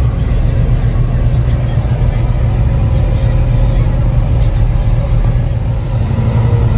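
Car engine running close by with a steady, deep exhaust rumble.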